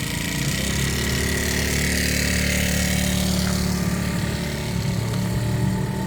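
Motorbike engine running steadily, its note firming up and getting a little louder about a second in.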